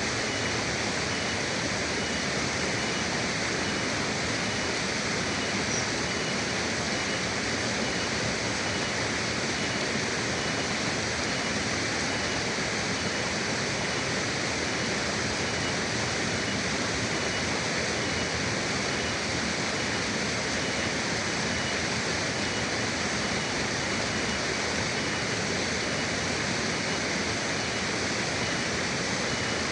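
River water flowing and rushing steadily, with an even, unchanging level.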